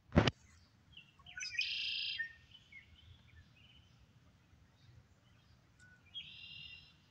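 A wild bird singing two short phrases, the first about a second in and lasting about a second, the second shorter and near the end. A single sharp knock at the very start is louder than the song.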